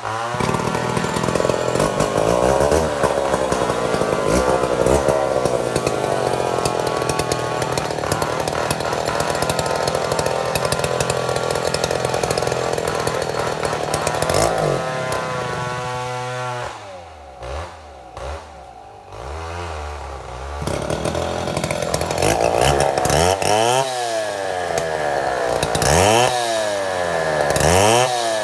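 Chainsaw milling a mahogany log, running at full throttle. About 16 seconds in, the engine drops to idle with a couple of short blips of throttle. From about 21 seconds it is revved up and down several times.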